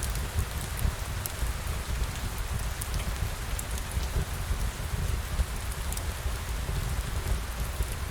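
Steady rain falling, an even hiss with a low rumble beneath it and scattered light ticks of drops.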